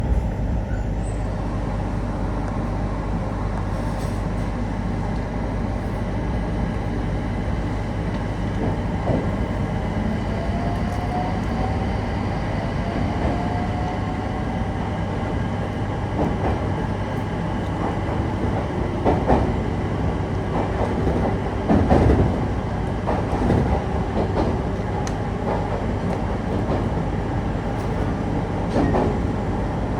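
Electric passenger train running on the rails, heard from inside the carriage: a steady low rumble with a faint rising whine about ten seconds in, and a run of sharp clacks from the wheels over rail joints around twenty seconds in.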